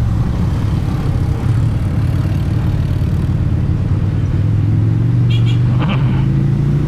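Motorcycle engine and exhaust running under way at a steady speed, the engine note climbing a little toward the end. A brief high beeping sounds about five seconds in.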